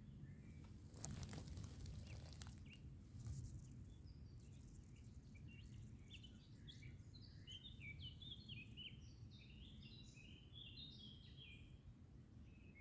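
Faint forest birdsong: a songbird sings a long phrase of quick, stepping high notes from about five seconds in, over a steady low rumble of ambient noise. About a second in there is a brief crackle.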